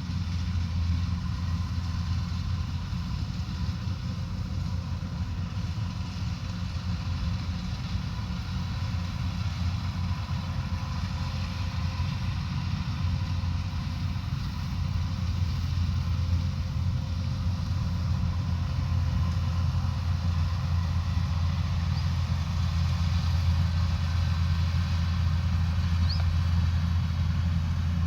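Rice combine harvester's diesel engine running steadily with a deep drone and a steady whine from the machinery. It grows slightly louder in the second half.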